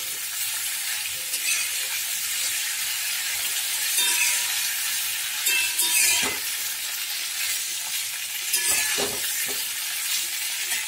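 Freshly blanched cauliflower florets sizzling in hot groundnut oil in a kadai. They are stirred with a steel spatula that scrapes and clinks against the pan a few times.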